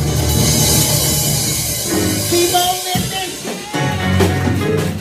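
Church band playing music with bass, keyboard and drums.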